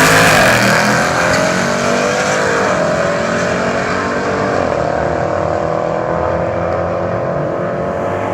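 Jeep Trackhawk's supercharged Hellcat V8 at full throttle on a drag strip pass, revs climbing and dropping at gear changes about half a second and nearly three seconds in, then pulling a long steady rise in the top gear as it draws away.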